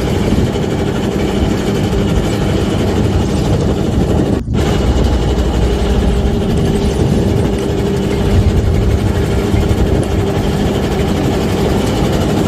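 A small fishing boat's engine running steadily with a low hum, with a brief break about four and a half seconds in.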